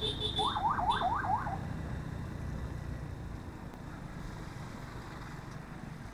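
A vehicle's electronic horn giving five quick rising chirps in just over a second, over a low steady rumble of engine and road noise.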